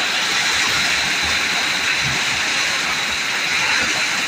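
Heavy rain falling steadily: a dense, even rushing hiss.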